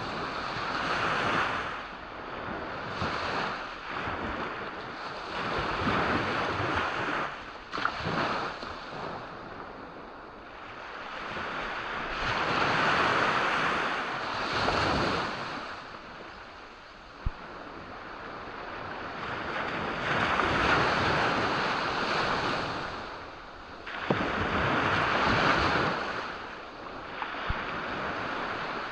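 Sea waves breaking and washing up a beach, the surf swelling and ebbing every few seconds, with a few brief sharp clicks.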